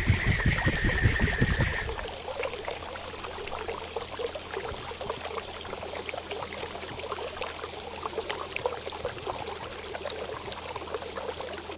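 Water trickling and gurgling steadily. For the first two seconds a loud low rumble and a steady high tone run with it, then stop suddenly.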